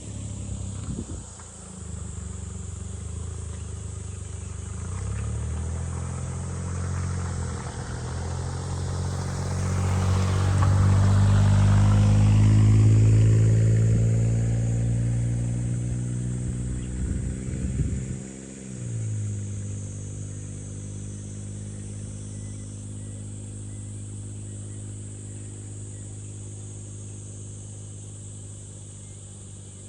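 A motor vehicle's engine passes, growing louder to a peak about twelve seconds in, then drops sharply in pitch around eighteen seconds and carries on steadily, slowly fading.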